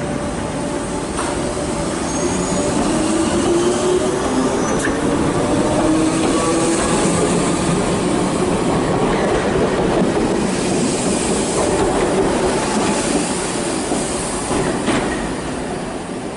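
Electric multiple-unit passenger train moving out along the platform. It runs with a rising whine as it gathers speed, and there are a few sharp clicks from the wheels and track.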